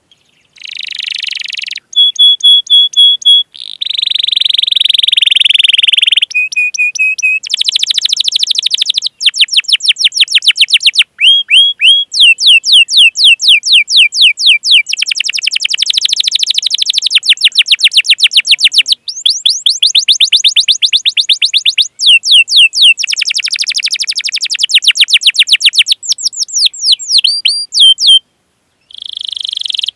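Domestic canary singing a long, loud song of rapid chirps and rolling trills: fast runs of short falling notes, buzzy rolls and a few brief held whistles, broken by short pauses.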